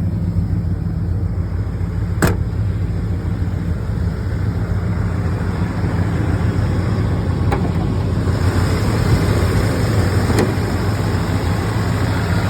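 A 1986 Ford F-250's 7.5-litre 460 V8 idling steadily at about 800 rpm, with a few sharp clicks over it, the loudest about two seconds in. About two-thirds of the way through, more hiss comes in over the engine note.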